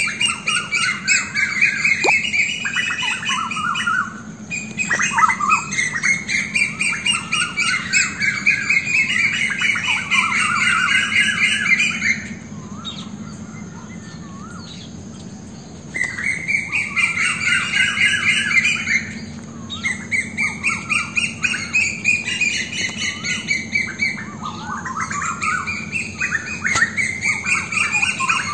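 Several birds chattering together in long bouts of fast, repeated call notes. The calling drops away for a few seconds about twelve seconds in, then resumes.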